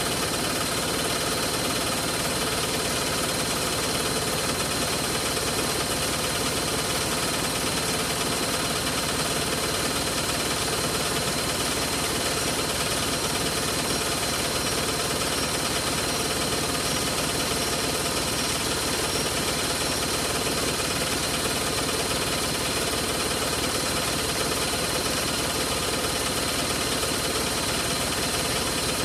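Hoover Logic washing machine spinning its drum at a steady high speed, an even mechanical whir with several held tones and no change in speed.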